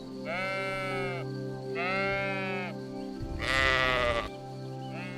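Sheep bleating: three drawn-out bleats of about a second each, the last one louder and harsher, over a steady background music drone.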